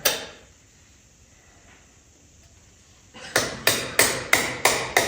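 A hammer striking metal in a steady run of sharp, ringing blows, about three a second, starting about three seconds in after a single click at the start. It is most likely knocking a tractor battery cable clamp down onto its post, which is not making good connection.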